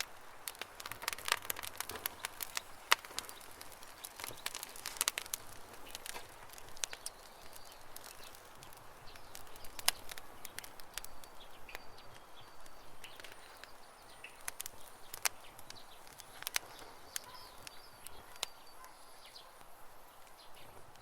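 Campfire crackling, with many irregular sharp pops. Small birds chirp faintly in the background, mostly in the second half.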